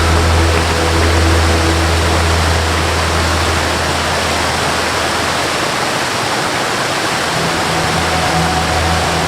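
Steady rushing of a waterfall, with a soft melody mixed underneath: a held low note fades out about halfway through and comes back near the end, with a few faint higher notes.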